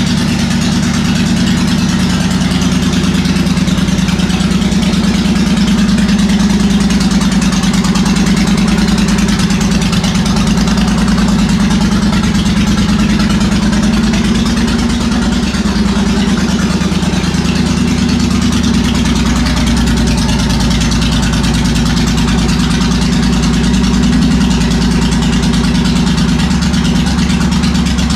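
Suzuki VS1400 Intruder's V-twin idling steadily through Jardine full-system slash-cut drag pipes, a loud, even open-pipe exhaust note.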